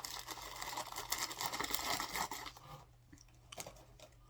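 Plastic snack packaging crinkling and rustling for about three seconds, then dropping away to a few faint clicks.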